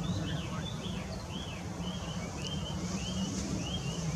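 A bird calling a steady series of short, arched notes, about two a second, over a low rumble of wind on the microphone.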